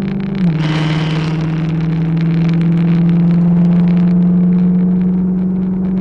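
2016 Dodge Charger R/T's 5.7-litre Hemi V8 running with a steady drone that steps down in pitch about half a second in. A brief burst of hiss follows.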